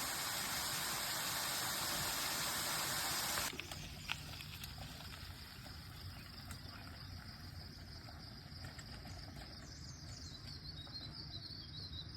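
A steady rushing noise that cuts off abruptly after about three and a half seconds, giving way to quieter forest ambience: a continuous high insect drone, with faint bird chirps near the end.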